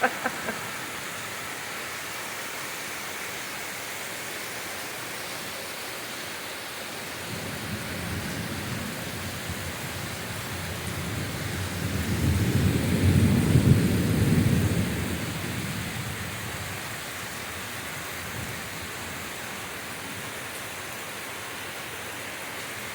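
Torrential rain pouring steadily, with a long roll of thunder that builds about a third of the way in, peaks just past the middle and rumbles away a few seconds later.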